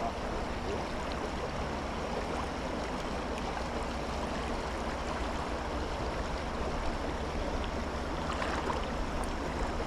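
Steady rush of creek water flowing, an even hiss with a low rumble underneath.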